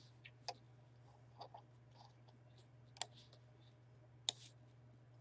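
Faint, scattered computer clicks, about five over a few seconds, the last two the sharpest, over a steady low electrical hum.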